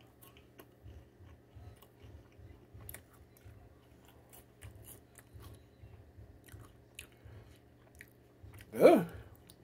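A person chewing a mouthful of puffed-corn cheese snack, mouth closed: a regular jaw rhythm with soft crunches and small clicks. A brief voiced sound comes near the end.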